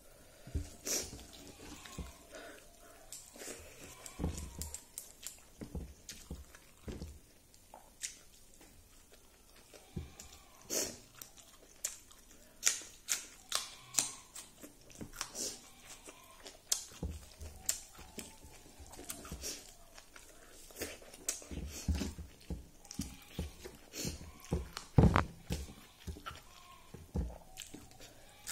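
Close-up eating sounds of a person eating rice by hand: irregular wet chewing, lip smacks and mouth clicks, with a sharper click or crunch about 25 seconds in.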